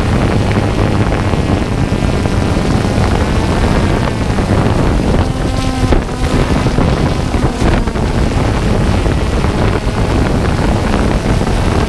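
Small multirotor drone's propellers and motors whirring, with wind buffeting the microphone in a steady loud rush; a faint motor whine shifts in pitch now and then.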